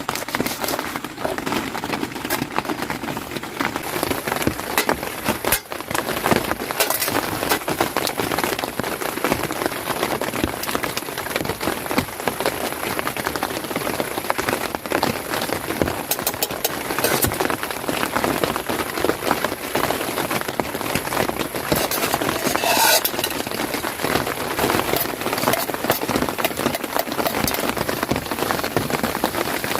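Steady rain falling on a tent, with a dense haze of drops and many small sharp drop hits throughout.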